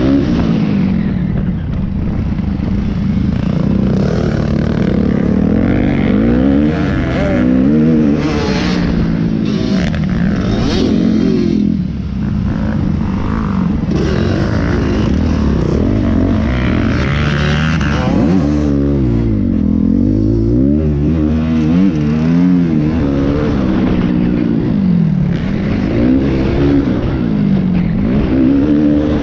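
Several motocross bike engines revving, their pitch rising and falling over and over as the bikes accelerate and ease off, with the sounds overlapping.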